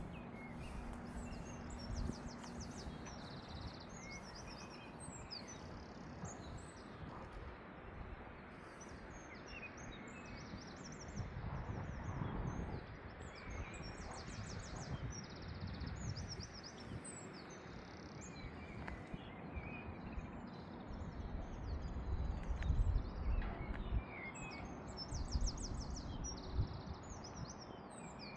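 Several songbirds chirping and trilling on and off, over a steady low rumble of outdoor background noise that swells twice, about twelve seconds in and again near the end.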